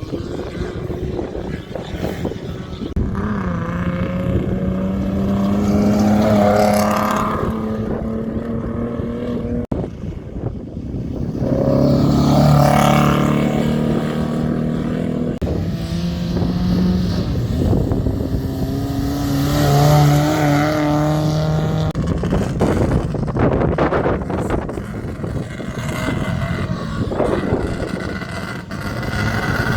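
Off-road racing motorcycle engines running at high revs as several bikes go by, each holding a steady high pitch for a few seconds.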